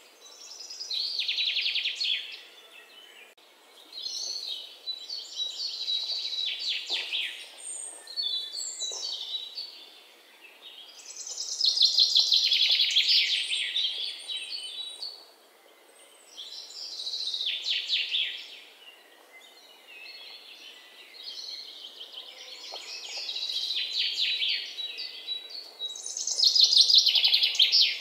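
Birds singing: repeated high, rapidly trilled song phrases of one to three seconds each, with short pauses between them.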